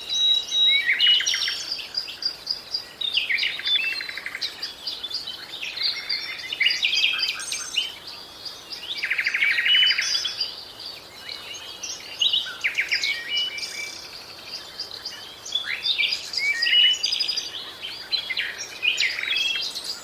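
Birds chirping: a busy run of high, quick chirps and short whistled notes, broken by several rapid trills, the longest about nine seconds in.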